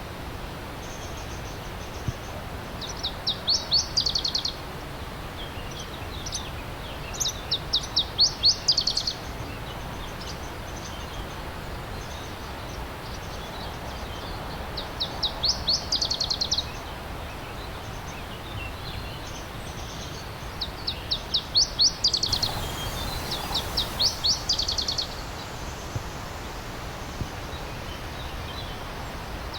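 A songbird repeating a short trilled song about five times, each a quick run of high notes that grows louder over a second or two. Under it runs the steady rush of a stream.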